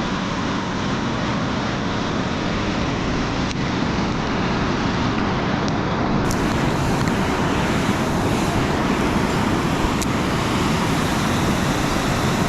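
Steady rushing of water flowing below a dam, an even noise with no change.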